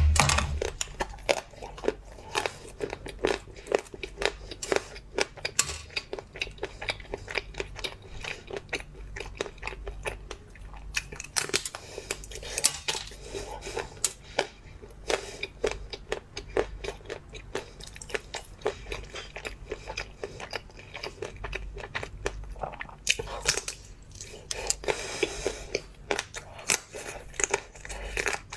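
Close-miked biting and chewing of a frozen treat coated in a hard, crisp shell: a dense run of sharp, irregular crunches, with louder bursts of crunching about eleven seconds in and again near the end.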